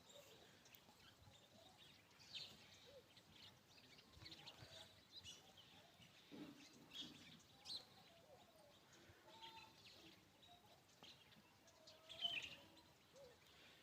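Faint bird chirps and calls, short and scattered, with one louder call about twelve seconds in.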